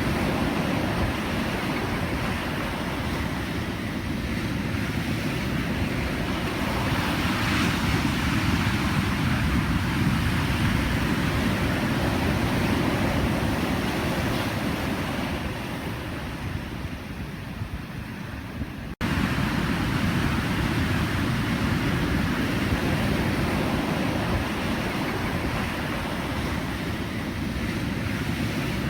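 Ocean surf: waves washing and breaking in a steady rumbling roar. The sound eases off for a few seconds, then cuts back in abruptly about nineteen seconds in.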